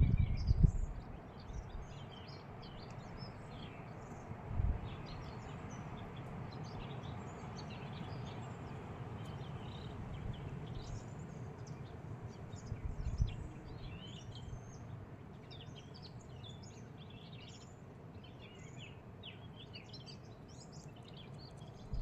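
Many small birds chirping and calling over a steady low background noise, with a couple of brief low bumps.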